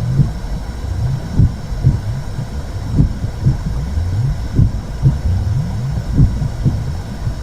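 Simulated womb sound: a low, muffled rumble with a heartbeat-like pulse on top, the beats coming in lub-dub pairs about every second and a half.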